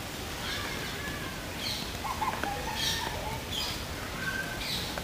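Birds calling: short high chirps come about once a second, and a few lower whistled notes sound around the middle, over steady background noise.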